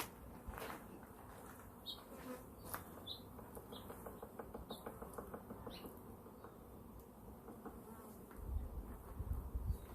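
Italian honeybees buzzing in a faint steady hum around an opened hive, with several short high chirps in the first half and a low rumble near the end.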